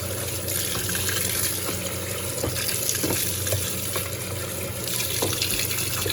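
Electrolux Turbo Compacta 7 kg top-load washing machine filling with water, a steady rush of water pouring into the tub, with a low hum underneath and a few faint ticks.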